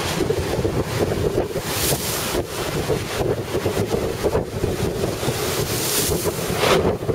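Storm surf crashing on the beach in strong onshore wind, with the wind buffeting the microphone. It surges in louder gusts, one about two seconds in and another near the end.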